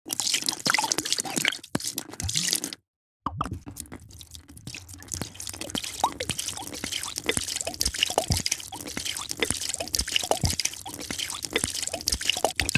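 Drink being poured into a glass in two separate takes, split by a brief silent cut about three seconds in. The second pour is steadier and quieter, with many small bubbling plinks and drips.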